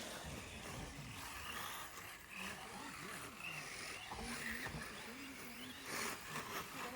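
Background chatter of people at the trackside, with the rising and falling whine of electric RC rally cars running on the circuit.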